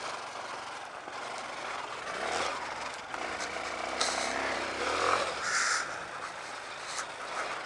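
A Honda CRF230L single-cylinder dual-sport motorcycle running while ridden, mostly buried under wind rush on a helmet-mounted camera.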